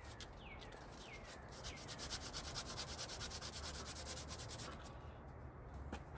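Abrasive scrubbing of metal inside the U-joint cup bores, cleaning them up, in rapid, even back-and-forth strokes. The strokes stop near the end, followed by a single click.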